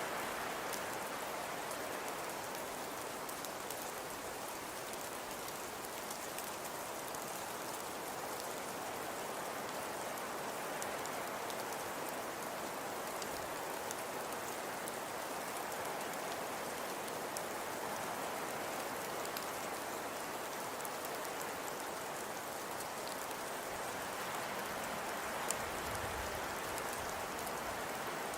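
Fireplace crackling: a steady soft hiss with scattered small pops and one sharper pop near the end.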